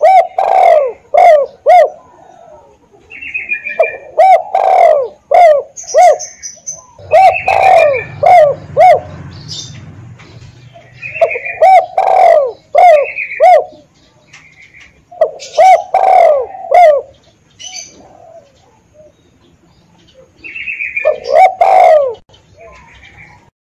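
Spotted dove (tekukur) cooing loud and close: a phrase of several quick coo notes repeated every few seconds, six phrases in all. Fainter chirps of small birds come between the phrases.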